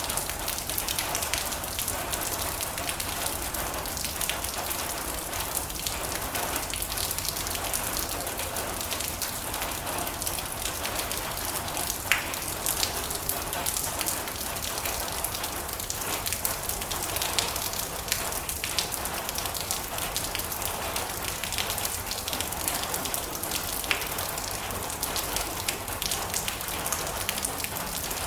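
Steady rain drumming on a metal roof: a dense, even patter with sharper single drips ticking out of it, one of the loudest about twelve seconds in.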